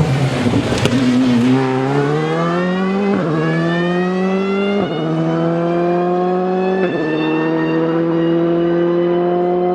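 Rally car engine accelerating hard up through the gears. The revs climb steadily and drop sharply at three upshifts about two seconds apart, then hold high near the end.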